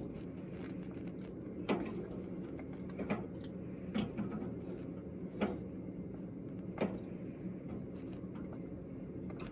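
Stripped screws being tightened on a thermocouple bracket, giving about five sharp clicks spread over several seconds, over a steady low hum.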